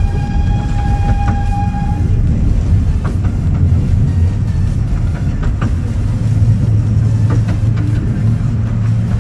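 Romney, Hythe and Dymchurch Railway 15-inch-gauge train running, heard from on board: a steady low rumble with scattered clicks of the wheels over the track. A steady whistle-like tone sounds for about the first two seconds.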